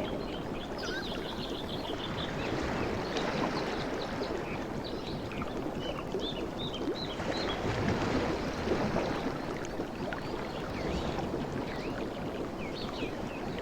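Ocean waves washing on the shore: a steady, even surf wash with many short, high chirping sounds scattered through it.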